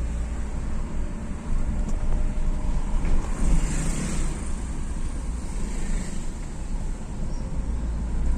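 Vehicle and road-traffic noise with a steady low wind rumble on the microphone, swelling louder about halfway through.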